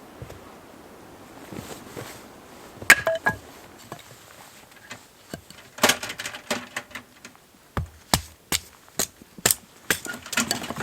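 A series of sharp clicks and knocks, one about three seconds in with a brief ringing tone, then a run of evenly spaced knocks about two a second in the second half.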